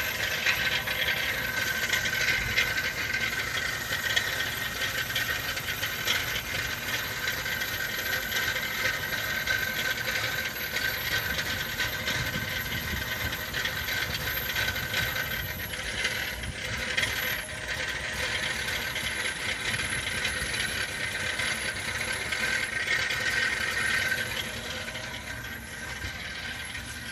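2002 Ford Explorer engine idling roughly, a steady mechanical rattle and clatter; it gets somewhat quieter near the end.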